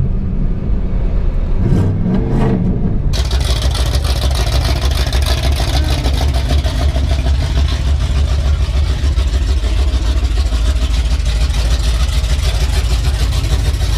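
Turbocharged Coyote 5.0 V8 of a 2011 Mustang GT running at a steady pace, not pulling hard. About three seconds in, a loud, steady rushing noise suddenly starts over the engine drone and holds to the end.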